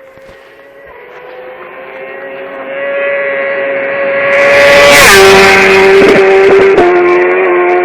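BMW S1000RR's inline-four engine through a Bodis full exhaust at steady high revs, growing louder as it approaches. It passes about five seconds in with a sharp drop in pitch, then fades as it pulls away.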